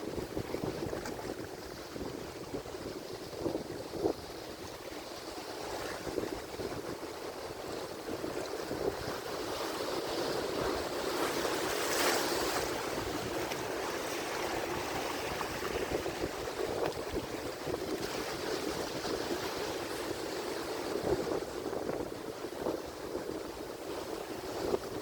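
Atlantic Ocean surf: waves breaking and washing in a steady rush, swelling to its loudest about twelve seconds in as a bigger wave breaks.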